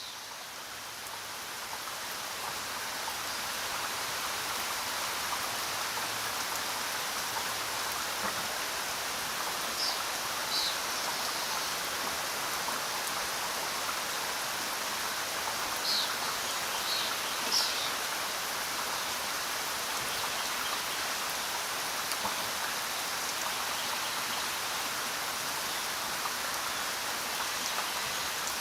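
Steady rain falling, a dense even hiss of drops that swells up over the first few seconds and then holds level. A few brief, high-pitched sounds stand out above it about a third of the way in and again just past the middle.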